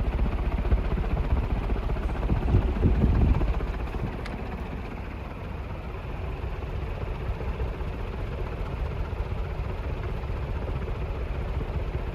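HRS industrial ceiling fan with three curved metal blades running on high: a steady rushing whoosh of air with a low rumble of air buffeting the microphone. It is louder for the first three seconds or so, then settles lower. At this speed the blades twist and wobble and make a lot of noise.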